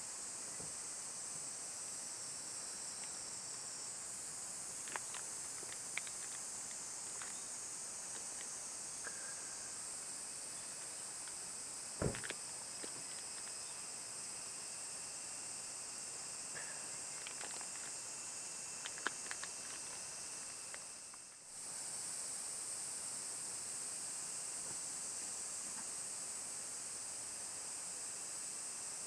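Outdoor ambience: a steady high hiss with scattered small clicks and one sharp knock about twelve seconds in. The sound drops away briefly about twenty-one seconds in, then returns.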